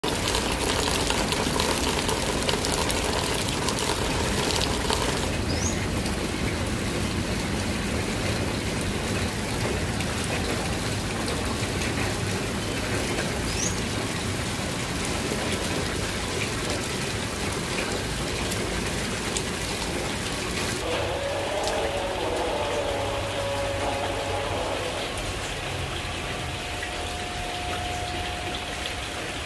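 Light rain drizzling steadily onto surfaces, an even hiss of many small drops. About two-thirds of the way through, a faint wavering tone joins the rain.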